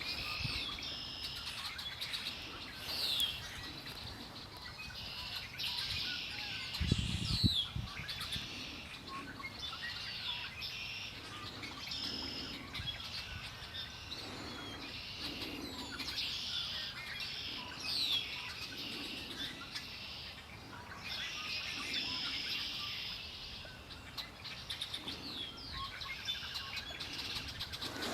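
Several songbirds singing and chirping at once, a dense chorus of overlapping high calls and short gliding notes. A brief low rumble comes about seven seconds in.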